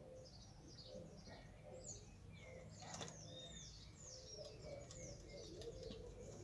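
Faint birdsong: many quick, falling chirps from small birds over a repeated low note, with one click about three seconds in.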